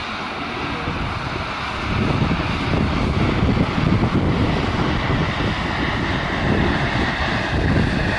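A railway locomotive working, a steady mechanical rumble and hiss that grows louder about two seconds in, with wind on the microphone.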